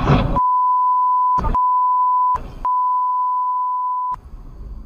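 A steady single-pitch censor bleep tone, broken twice by brief snatches of the underlying noisy audio, cutting off about four seconds in.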